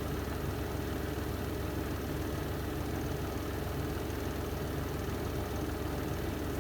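The spin drum of a Renova semi-automatic twin-tub washing machine spinning steadily, a constant low motor hum with no change in speed.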